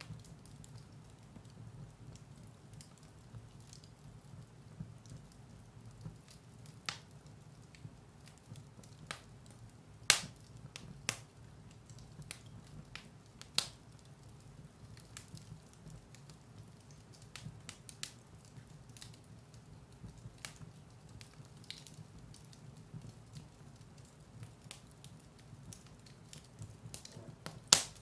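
Firewood burning in a fireplace: a steady low rumble of the flames with scattered sharp crackles and pops, the loudest about ten seconds in, again near eleven and thirteen and a half seconds, and one just before the end.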